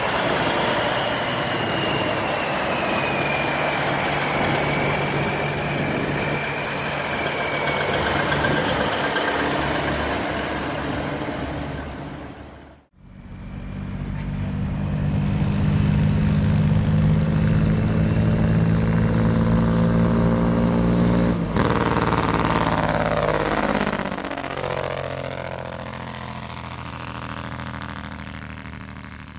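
Truck engines running as trucks drive by. An abrupt break about halfway through separates two stretches, and in the second a truck passes close, its engine sound sweeping as it goes by.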